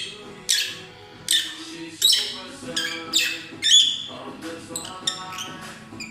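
Peach-faced lovebirds giving a series of shrill, harsh chirping calls, about one or two a second, over faint background music.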